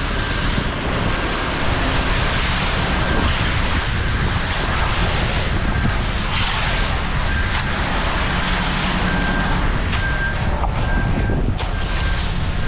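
Ready-mix concrete truck's diesel engine running steadily while the concrete is poured, with wind buffeting the microphone.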